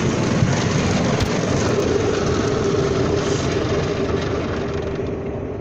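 Automatic car wash machinery working over the car, heard from inside the cabin: a steady rushing noise of spray and brushes with a steady motor hum, easing off slightly near the end.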